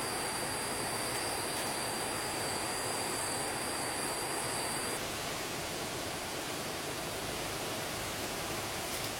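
Stream water rushing steadily. A thin high steady whine over it cuts off suddenly about halfway through.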